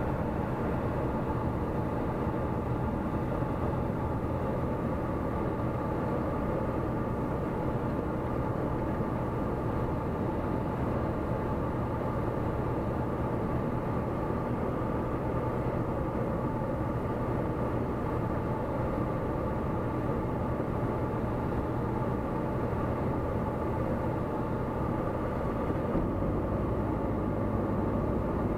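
Tecnam P96 Golf light aircraft's Rotax 912 four-cylinder engine and propeller running with a steady drone; the low end of the sound grows louder about 26 seconds in.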